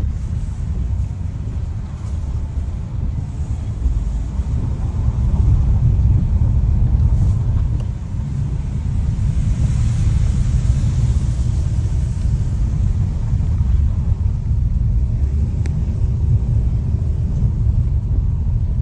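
Steady low rumble of a car driving, heard from inside the cabin: engine and road noise from the tyres. A swell of hiss rises and fades about halfway through.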